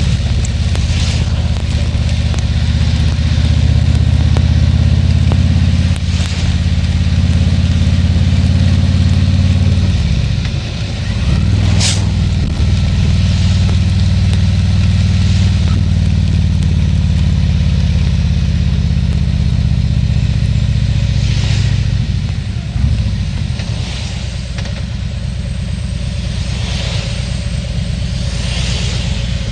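Harley-Davidson Tri Glide Ultra's V-twin engine running on the road, heard with steady wind and road hiss. The engine note drops and picks back up about a third of the way in and again about three quarters of the way in, as with gear changes or slowing. A single sharp click comes near the first dip.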